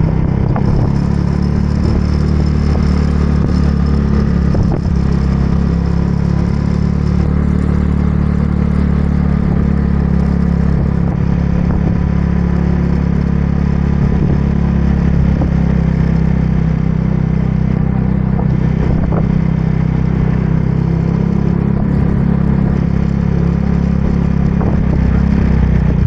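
Motorbike running steadily while riding, a loud continuous low rumble with no change in pace.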